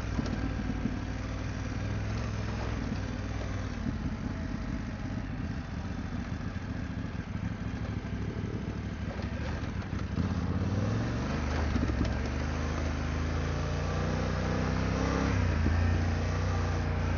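BMW F900GS parallel-twin engine pulling the bike along a dirt trail, revs rising and falling with the throttle and getting louder in the second half.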